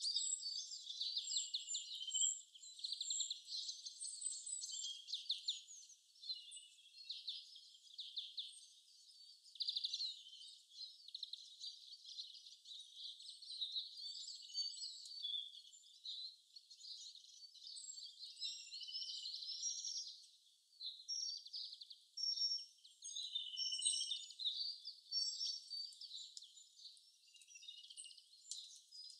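Birds chirping and trilling, many short calls overlapping without a break. It sounds thin, with nothing low beneath the calls.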